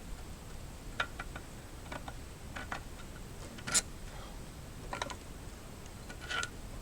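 Scattered light clicks and taps, about a dozen in small groups, the loudest a little past the middle.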